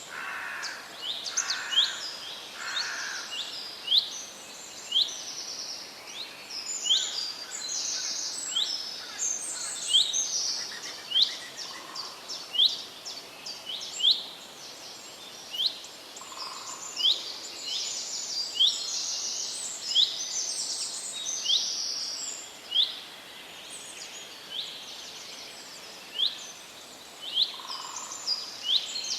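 Birds chirping: many short, sharp, high calls repeating and overlapping, with a few softer, lower notes now and then over a light steady hiss.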